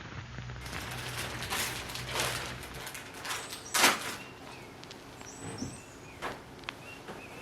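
Light handling sounds: soft rustles and swishes with a few light clicks and knocks, the loudest swish about four seconds in.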